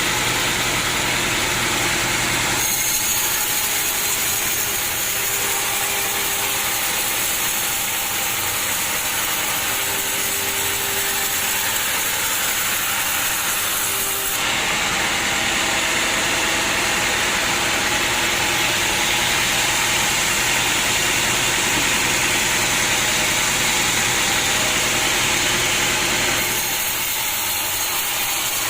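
Sawmill running: a steady, loud engine-and-machinery noise with a strong hiss. Its character changes abruptly three times: a few seconds in, about halfway through, and near the end.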